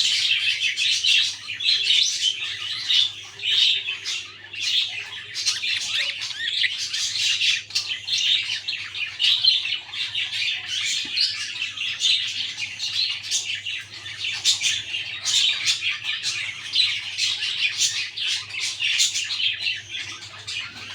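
Budgerigars chattering: a dense, continuous stream of quick, high chirps and squawks with no pause.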